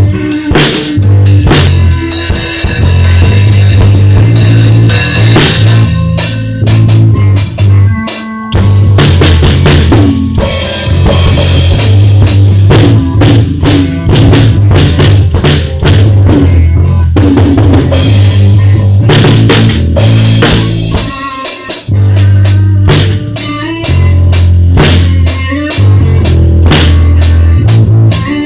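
A rock band playing loudly: a drum kit with bass drum and snare hits over a heavy, sustained bass line and electric guitar.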